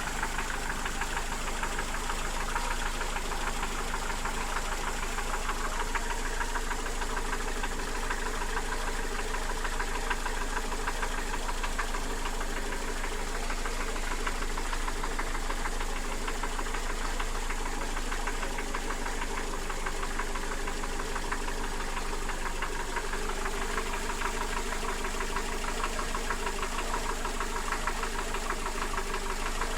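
Mercedes-Benz M102 four-cylinder petrol engine running steadily with a rapid, regular knocking. The knock comes from wear in the cylinder-piston group: the owner puts it down to worn connecting-rod bearings, small-end bushings, pistons, pins and rings, all due for replacement.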